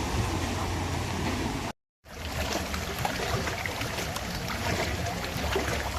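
An engine running steadily under a wash of rushing floodwater, broken by a short cut to silence about two seconds in.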